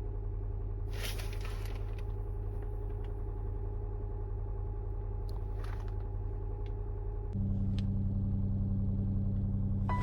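Toyota Aqua hybrid's petrol engine running steadily after a cold start, which the owner takes to be charging the battery. About seven seconds in it steps up to a louder, higher-pitched running.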